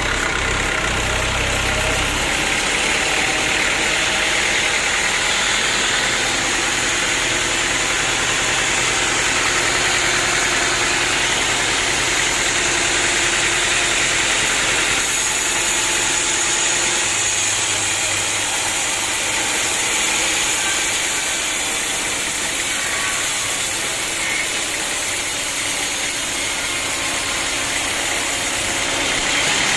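Sawmill machinery running steadily: a motor hum under a constant loud hiss, with no breaks.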